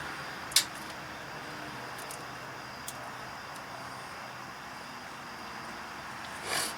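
Side cutters snipping the tail off a zip tie: one sharp click about half a second in, a fainter click later, and a brief rustle near the end, over steady background noise.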